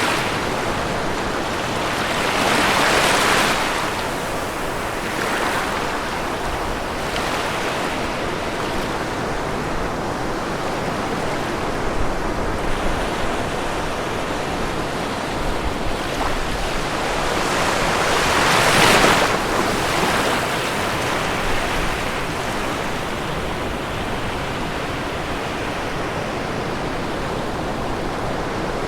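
Ocean waves washing onto a shore in a continuous hiss. Breakers swell up about 3 seconds in and again, loudest, about 19 seconds in, with smaller ones between.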